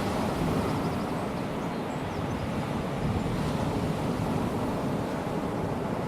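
Small waves of a calm sea breaking and washing on a sandy beach, a steady rush that swells slightly about half a second in and again about three seconds in.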